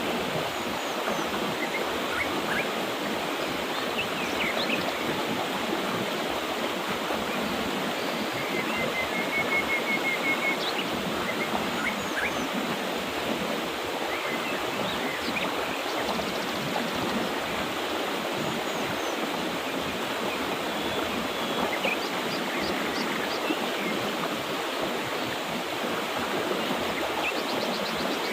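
Mountain river water rushing steadily over rocks, with small birds chirping now and then over it, including a short trill about ten seconds in.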